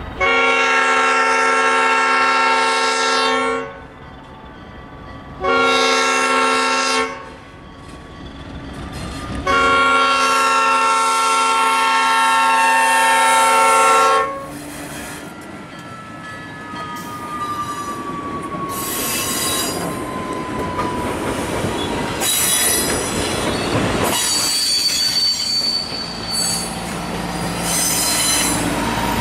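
ALCO RS-1 diesel locomotive's horn sounding for a road crossing in three blasts: long, short, long. Then the locomotive and its passenger coaches roll through the crossing, wheels clicking over the rail joints and squealing on the rails.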